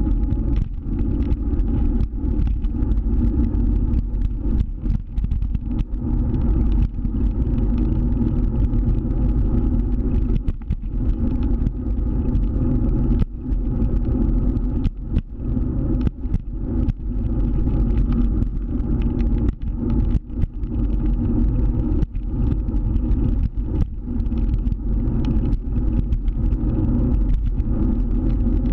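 Scooter on the move: a steady low rumble of its running and the road, broken by many brief dips in level.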